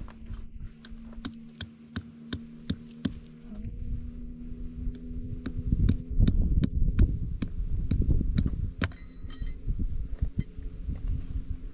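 Peg hammer driving tent pegs: a run of sharp strikes about three a second, a pause, then a second run, over a low steady hum.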